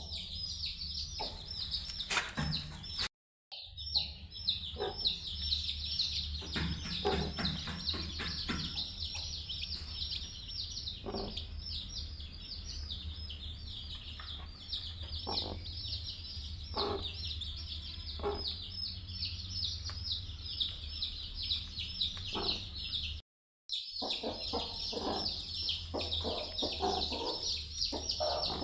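Newly hatched chicks peeping in a constant chorus of high, rapid chirps, with a hen clucking now and then. The sound cuts out completely twice, briefly.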